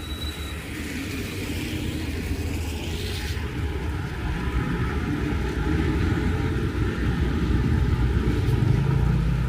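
Heavy rain with a low rumble underneath that builds louder over the last few seconds.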